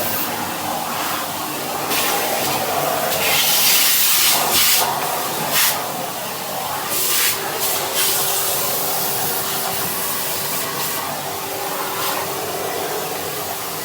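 Vacuum cleaner running with a brush nozzle: a steady suction hiss that grows sharper and brighter in short surges around four and seven seconds in.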